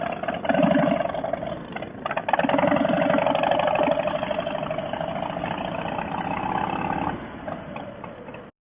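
Harley-Davidson V-twin motorcycle engine pulling away: it revs up briefly about half a second in, revs again harder a couple of seconds in, then runs on steadily and eases off before cutting off abruptly near the end.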